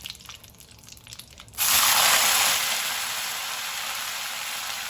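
Faint crackling in the pan of tempering, then about a second and a half in, strips of freshly washed elephant yam go into the hot oil of a kadai and it breaks into a loud sizzle. The sizzle eases a little and goes on steadily as the wet pieces fry.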